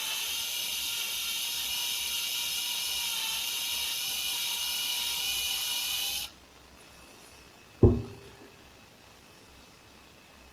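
Electric drill running a step drill bit as it widens the hole in a plastic cable-gland nut: a steady high-pitched whine that stops abruptly about six seconds in. A single sharp knock follows near the end.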